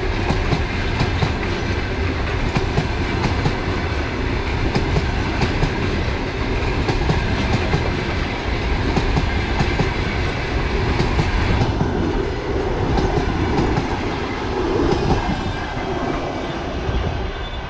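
Passenger train coaches rolling past at speed, their wheels clattering rapidly and steadily over the rail joints. About two-thirds of the way through the sharp clatter thins, and near the end the sound eases off as the tail of the train draws away.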